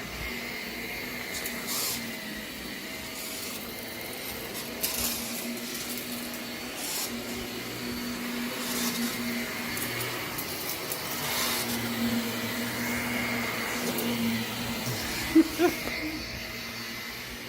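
Vacuum cleaner running with a steady motor hum and whine, its sound swelling and easing as it is pushed back and forth. Near the end a dog gives two short, loud barks at it.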